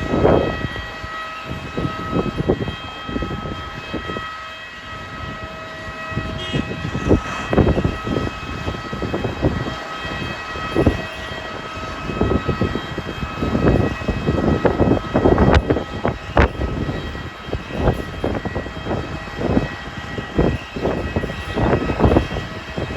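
Strong wind buffeting the phone's microphone in irregular rumbling gusts, over a steady high machinery whine from the aircraft-servicing scene.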